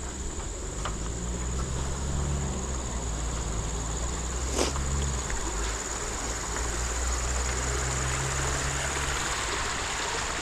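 Insects in the forest keep up a steady, high-pitched drone, over a low rumble and a few sharp clicks.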